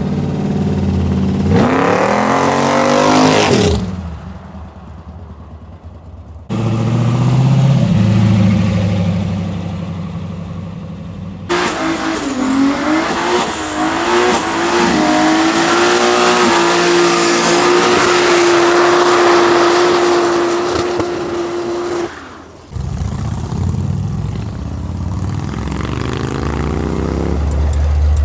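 Car engines revving and accelerating past in several cut-together shots, the engine pitch climbing as each car pulls away. In the middle a longer, noisier stretch carries a steady high tone.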